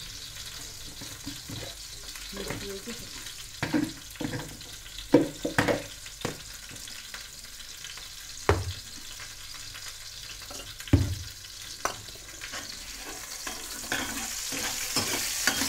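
Chopped garlic frying in hot oil in a steel kadhai: a steady sizzle that grows louder over the last couple of seconds. A few sharp metal clinks of steel utensils are scattered through it.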